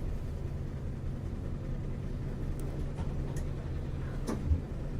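Isuzu U-LV224N bus's 6QB2 V8 diesel engine running steadily, heard from inside the passenger cabin, with one short thump about four seconds in.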